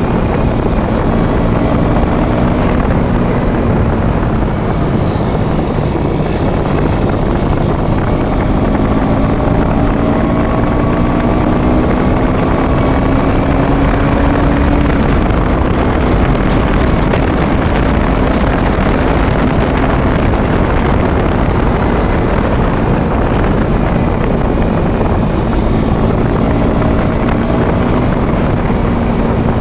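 Motorcycle engine running at road speed under a steady loud rush of wind on the microphone. The engine note climbs slowly for several seconds in the middle, then settles.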